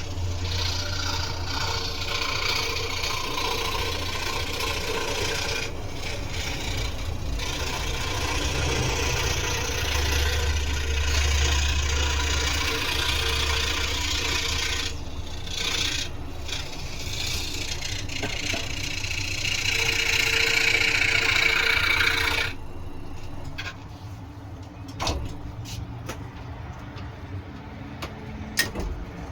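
Scroll saw running and cutting wood: a steady motor hum under the rasping of the blade, with a few brief breaks. It stops suddenly about 22 seconds in, leaving a few light clicks and knocks.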